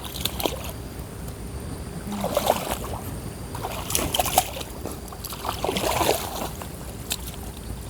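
Water splashing and sloshing in a few irregular bursts about every couple of seconds, over a steady low rumble, as someone wades and catches fish in shallow water.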